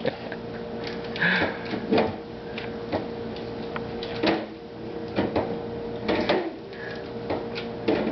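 Irregular knocks and clatter of food containers and bottles being grabbed and pulled from a refrigerator, about one every half second to a second, over a steady faint hum.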